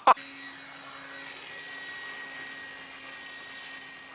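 A sharp knock right at the start, then the steady whine of a radio-controlled model plane's electric motor and propeller, holding one pitch and swelling slightly, then easing.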